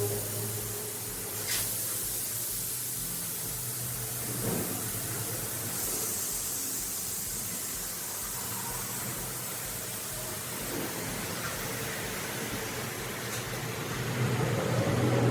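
A steady low machine hum under an even hiss, with a couple of light knocks about a second and a half and four and a half seconds in.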